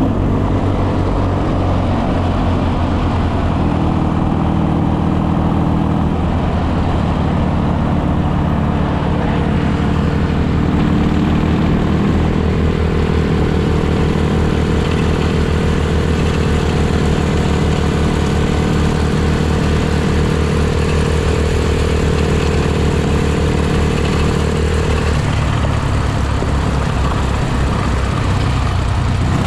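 Motorcycle engine running steadily through the whole stretch. Its note shifts up and down a few times as the engine speed changes.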